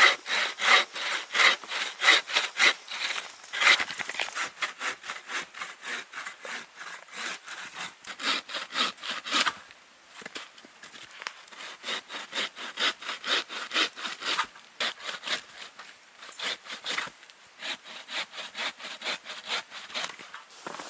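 Hand saw cutting wood in quick, even back-and-forth strokes, about three a second. The strokes pause briefly about ten seconds in, then start again a little softer.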